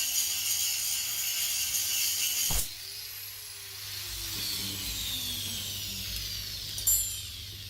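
An electric power tool running steadily with a high hiss and a constant hum. It switches off about two and a half seconds in and winds down with a falling whine. A short metallic tap comes near the end.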